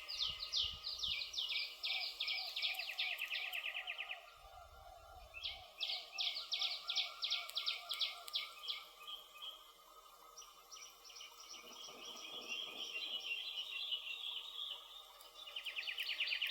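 Songbirds singing in phrases of a few seconds, each a fast series of high down-slurred notes, with a higher, smoother trill between about 10 and 14 seconds in. Near the end a dense, steady high trill starts, typical of an insect such as a cricket.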